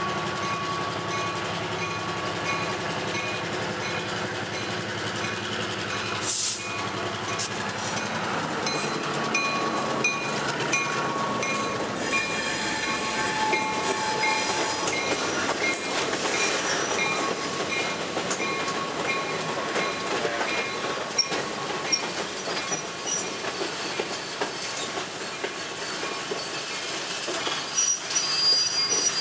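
A short freight train passing close by: the switcher locomotive goes by, then flatcars and passenger coaches roll past, their wheels clicking over rail joints with some squeal from the wheels.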